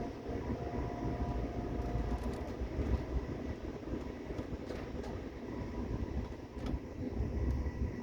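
Moving train running with a steady low rumble, with a few sharp clicks spaced a couple of seconds apart.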